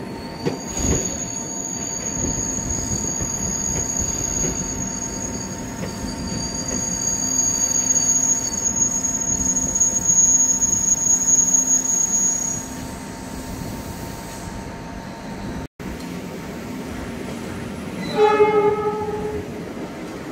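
Tokyu 8500 electric commuter train running along the platform, its cars rumbling with a steady high whine that stops about 13 seconds in. Near the end a train horn sounds once for about a second and a half.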